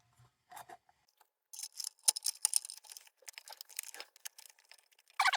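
Small metal lantern parts being handled and fitted together by hand: a quick run of light clicks, taps and scrapes.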